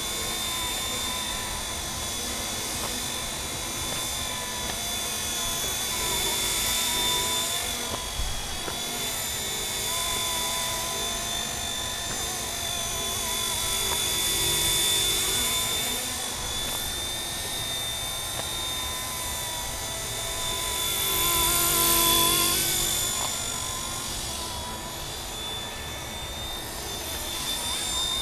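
Radio-controlled scale MD 500 helicopter flying: a steady high whine from its motor and drive over the rotor noise, swelling louder and easing off three times, loudest a little past the middle.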